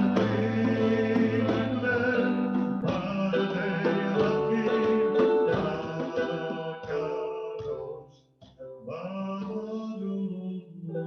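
A cantor's male voice singing a Jewish liturgical melody with instrumental accompaniment. The music dies away about eight seconds in, and softer sustained notes follow.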